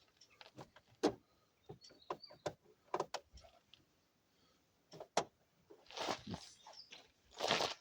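Irregular clicks, taps and knocks of small parts of a truck's instrument cluster being handled and pried apart, with a longer scrape about six seconds in and another near the end.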